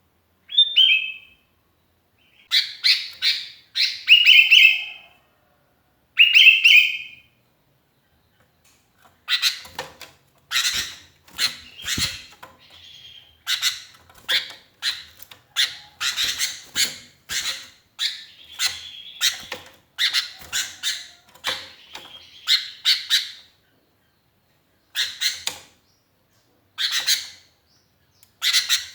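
Sooty-headed bulbul calling in bursts of quick, chattering notes separated by short pauses, the calls coming thicker from about ten seconds in. It is a lone bird calling for companions.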